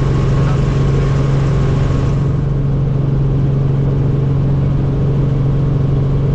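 Helicopter turbine and rotor running steadily in flight: a loud, even low drone, with the higher hiss above it falling away about two seconds in.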